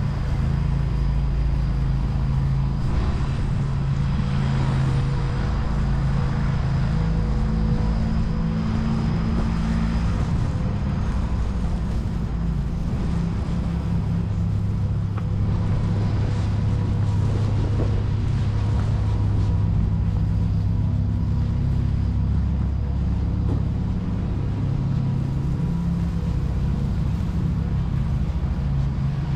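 Steady low rumble of motor traffic, a vehicle engine running close by, with a faint steady whine over it.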